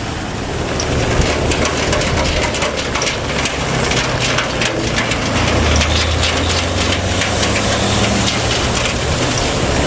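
Hino truck's diesel engine pulling uphill, getting louder about halfway through, with a clatter of sharp clicks and rattles over it in the first half.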